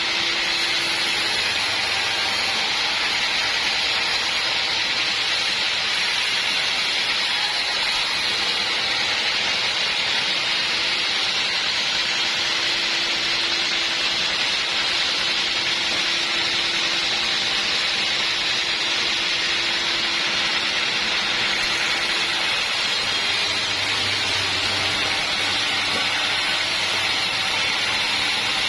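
Sawmill saw cutting steadily through an acacia log, a continuous even hiss-like noise that holds the same level without a break.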